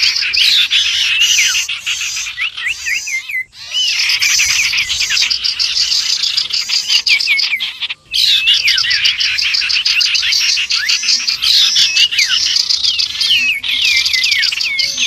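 Dense, loud chorus of small songbirds chirping and whistling over one another, a mixed bird-lure recording built around common iora (cipow) calls. It breaks off briefly about three and a half seconds in and again about eight seconds in.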